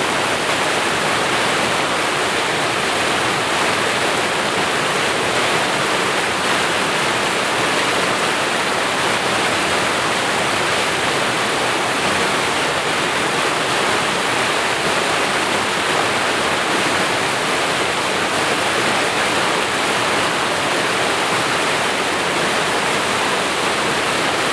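Creek waterfall rushing steadily, a constant full hiss of falling water.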